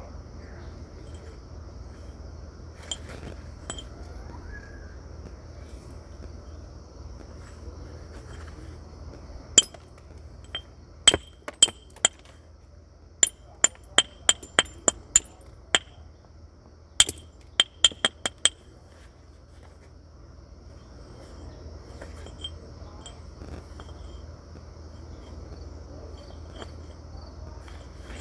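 Flint being knapped with a natural hammer: about twenty sharp, ringing clicks of strikes on the stone, coming in two quick runs in the middle stretch, the second at roughly two or three strikes a second.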